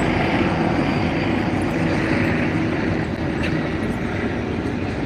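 Police helicopter overhead, a steady engine and rotor drone.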